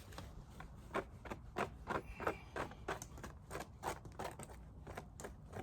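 Repeated scraping strokes on a beehive frame's comb, about three a second, as dead bees are scraped out of the cells.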